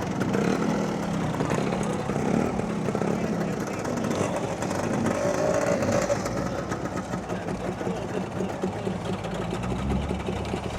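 A vehicle engine running steadily, with voices in the background.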